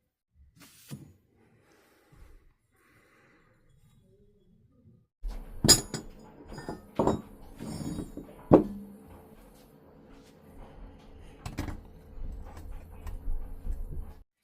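Sharp metallic clinks and knocks, four or five of them, over a steady low hum that starts about five seconds in and cuts off abruptly near the end; the first seconds hold only faint scattered sounds.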